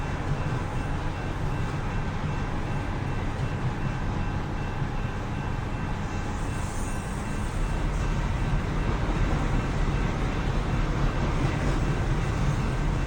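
A train rolling past: a steady low rumble that grows somewhat louder about halfway through, with faint steady higher tones above it.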